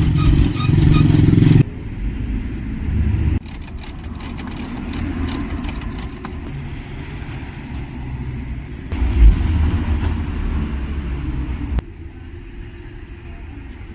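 A low engine rumble with a run of quick clicks about four to six seconds in. The sound changes abruptly several times.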